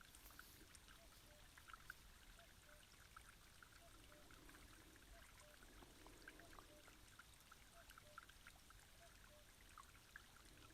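Near silence: a faint, steady background hiss with scattered small ticks, like a soft trickle of water.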